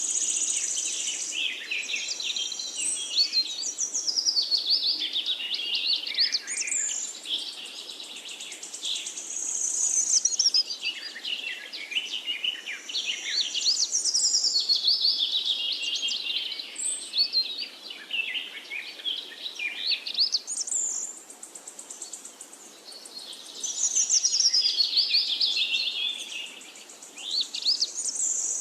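Birds singing in a forest, several overlapping songs of quick rising and falling whistled phrases that go on with only brief lulls, over a steady high-pitched hiss.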